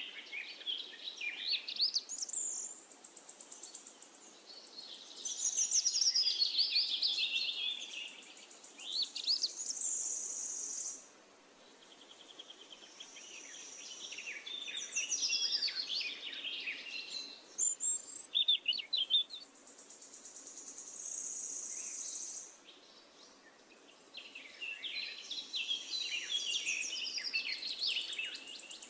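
Birds chirping and singing in quick, overlapping calls and whistles, with a steady high-pitched buzz that comes and goes for a few seconds at a time.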